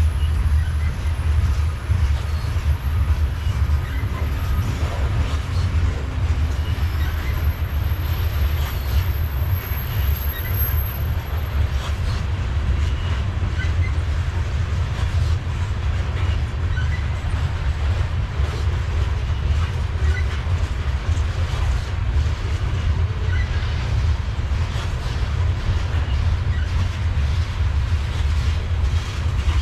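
Loaded covered hopper cars of a freight train rolling steadily past: a continuous low rumble of wheels on rail, with occasional short wheel squeaks.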